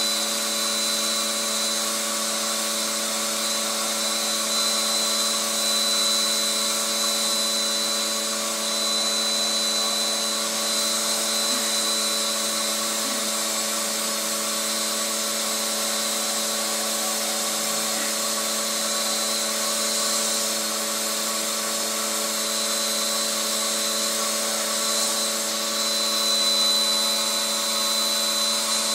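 Vacuum cleaner motor running steadily with a high whine.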